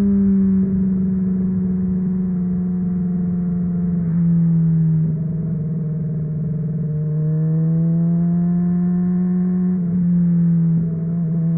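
2008 Honda CBR600RR inline-four running through a MIVV Suono exhaust, cruising at part throttle. The engine note sags slowly and climbs again, with brief changes about four to five seconds in and near the end.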